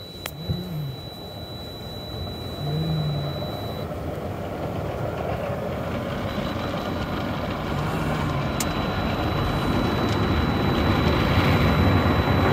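Automatic car wash equipment running around the car, heard from inside the cabin: a steady rushing noise that grows gradually louder, with a sharp click near the start and another about two-thirds of the way through.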